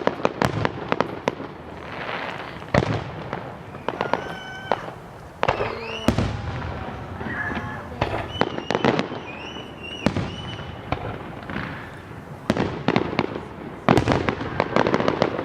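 Fireworks going off: repeated sharp bangs and crackling, with dense clusters of rapid cracks near the start and again near the end.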